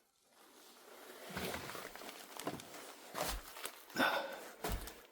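Footsteps with rustling and several low thuds, starting about a second in.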